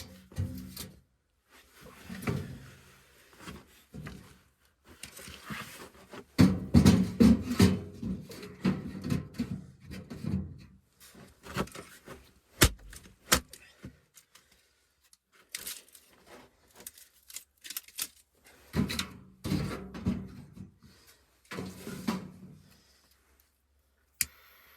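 Irregular knocks, clinks and rustling of gear being handled, in clusters with short pauses between them.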